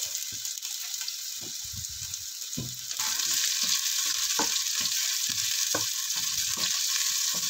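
Garlic, onion, tomato, bell pepper and carrot sautéing in oil in a frying pan: a steady sizzle with a wooden spoon knocking and scraping against the pan as they are stirred. The sizzle gets louder about three seconds in.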